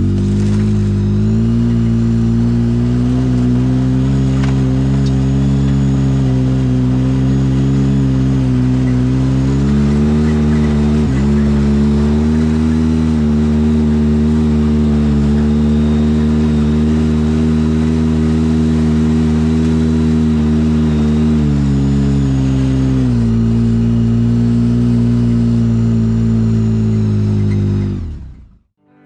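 A vehicle engine running steadily, its engine speed stepping up and down a few times, then cutting off abruptly near the end.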